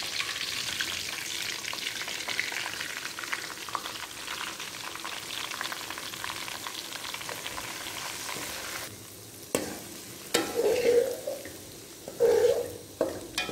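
Semolina sizzling in hot ghee in a kadhai as it is added and starts to roast. The sizzle dies down after about nine seconds, leaving a few sharp knocks and short scrapes of stirring in the pan.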